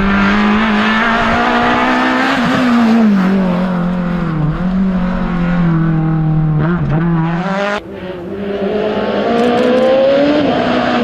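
Rally car engine running hard at high revs, its pitch rising and falling with throttle and gear changes. About eight seconds in it cuts off sharply, then builds again.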